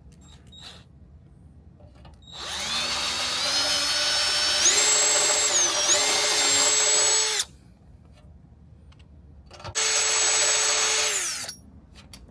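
Electric drill running in two bursts. The first lasts about five seconds, rising in pitch as it speeds up and dipping briefly once. The second is shorter and winds down at its end.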